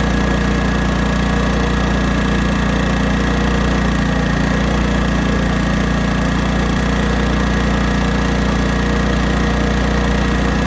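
1980s Honda generator engine running steadily under load, with its carburetor mixture screw turned in two and a half turns to run lean.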